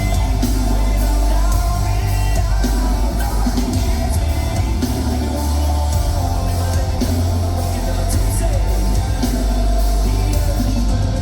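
Live rock band playing loudly: heavy bass, a steady drum beat with cymbal hits, and a lead vocal.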